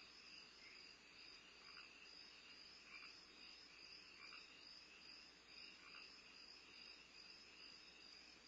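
Faint, steady chorus of night insects, most likely crickets, trilling without a break, with four short, lower chirps spaced about a second or so apart.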